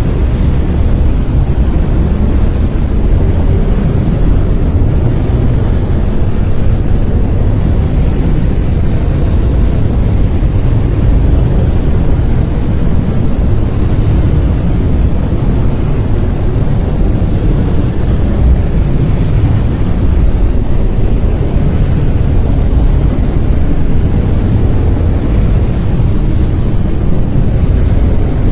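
Brown noise: a steady, loud, deep rumbling hiss with most of its strength in the bass, unchanging throughout.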